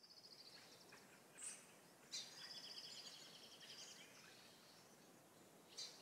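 Faint outdoor ambience with songbirds: a rapid trill at the start, a short call about one and a half seconds in, and a longer trill from about two seconds in that lasts well over a second, over a soft steady hiss.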